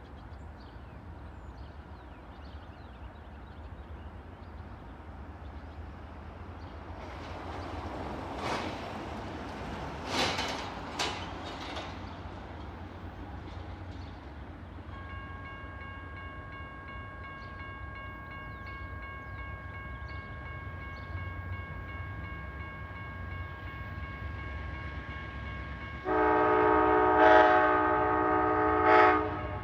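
An Amtrak diesel passenger train approaches with a steady low rumble and a few sharp knocks. A faint steady high tone comes in about halfway. Near the end the locomotive's multi-note air horn sounds one loud blast of about three seconds, ending with a short extra blip.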